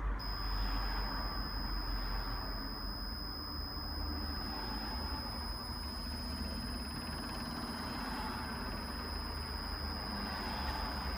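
LG Multi V mini air-conditioning outdoor unit running steadily after start-up: a constant low rumble and whooshing hum, with a thin steady high-pitched tone above it.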